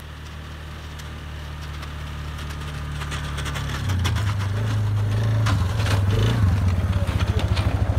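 An engine running and getting steadily louder as it draws near, its pitch stepping up about four seconds in and settling into a fast, even pulsing near the end, with scattered clicks and scraping over it in the middle.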